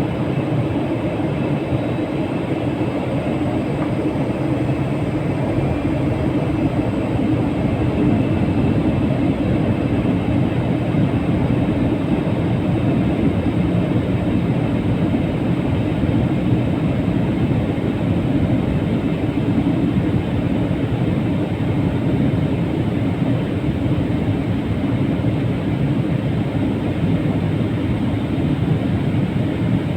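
Steady running noise of a moving train, an even rumble with no breaks or changes.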